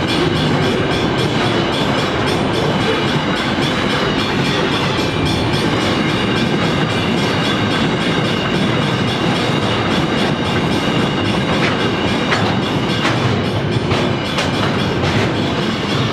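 Loaded container freight wagons rolling past, a loud steady rumble of steel wheels on rail with repeated clicks as the wheelsets cross the rail joints, a few sharper clicks in the second half.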